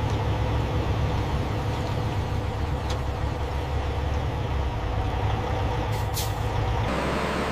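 Heavy logging machine's engine running steadily, with a short hiss about six seconds in.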